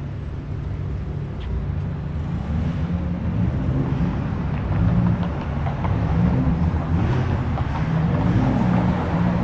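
A car engine running and revving, its pitch rising and falling several times and getting louder after about two seconds, as the car rolls in.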